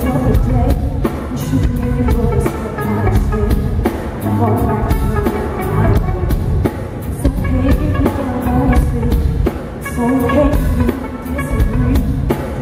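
Live soul band playing a song with a steady drum-kit beat, bass and guitar.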